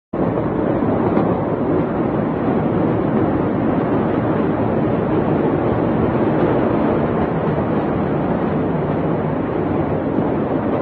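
Steady, loud rumbling noise of earthquake shaking, unbroken throughout.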